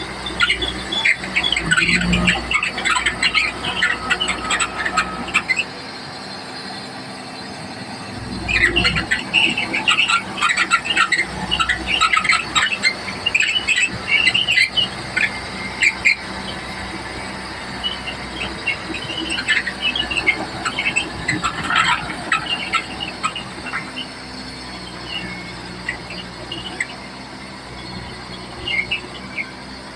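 Komatsu D31P bulldozer working, its engine running steadily under bursts of shrill metallic squealing and squeaking from the tracks and undercarriage. The squeals come in three stretches, with lulls about six seconds in and after about twenty-three seconds.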